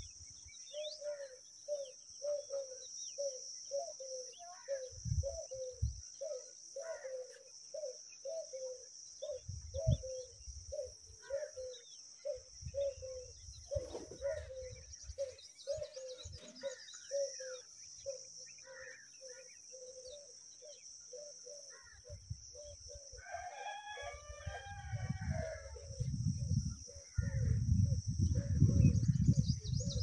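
Outdoor bird calls: a short note repeated about twice a second throughout, with a longer, fuller call about 24 seconds in, over a steady high hiss. Bursts of low rumble come in now and then and are loudest near the end.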